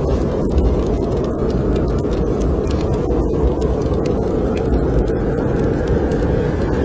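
Snowstorm wind blowing steadily and deep, with a wood fire crackling over it in scattered small, sharp clicks.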